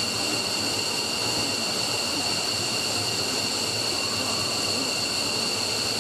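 F-15 jet engine running steadily during a ground test run: a steady high-pitched whine over an even rushing noise.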